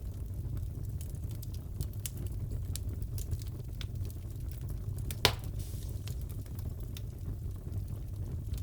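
Wood fire crackling in a fireplace: a steady low rumble with scattered small crackles and one louder pop about five seconds in.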